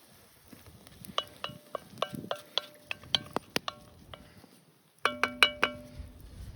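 Metal cookware clinking: a run of quick clinks, each ringing briefly, for about three seconds, then a denser cluster of clinks with a lower ring about five seconds in.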